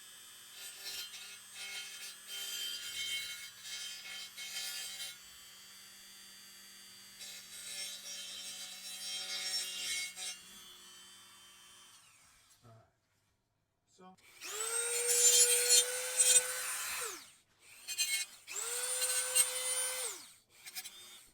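Deburring an aluminium engine block: uneven bursts of scraping and rasping for the first ten seconds or so. Then a high-speed rotary grinder is run twice, each time about two seconds: it whines up to a steady high pitch while grinding the casting, then winds down as it is switched off.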